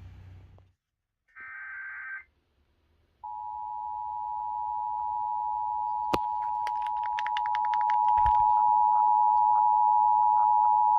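A short buzzy data burst, then the Emergency Alert System two-tone attention signal (853 and 960 Hz) starting about three seconds in and sounding steadily, getting louder, marking the start of an EAS test. Faint clicks run under the tone in the middle stretch.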